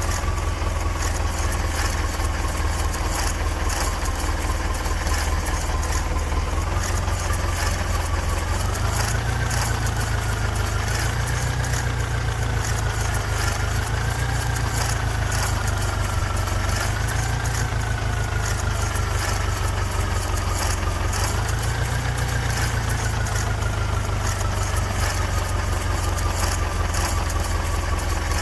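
Heavy diesel engine of a tractor or backhoe loader running steadily, then revving up and down several times from about 8 seconds in as it works under load. A faint whine rises and falls with the engine speed.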